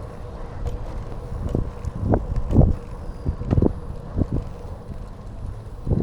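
Riding a bicycle: a steady low rumble of wind and tyres on the microphone, with irregular knocks and rattles from bumps in the path, several between about two and four seconds in and another near the end.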